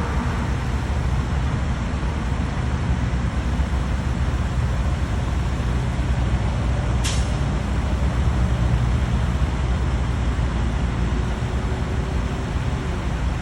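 Steady low rumble of road vehicles, with a brief sharp hiss about halfway through.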